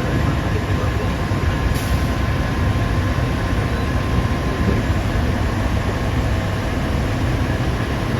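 Heavy diesel mining machinery running steadily: a deep, continuous engine drone with a faint steady whine above it.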